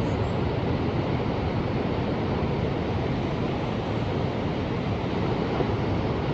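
Ocean surf: a steady, even rush of waves with no separate breakers standing out, deepest in the low range.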